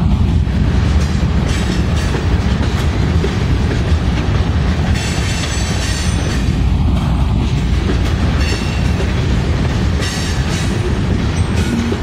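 Norfolk Southern freight train passing close by, its GE diesel-electric locomotives running with a steady low rumble and the steel wheels clicking over the rail joints. Brief high wheel squeals come in about five seconds in and again near the end.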